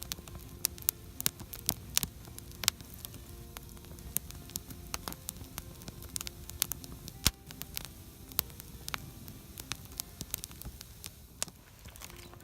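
Wood campfire crackling, with irregular sharp pops, several a second, over a faint low hum.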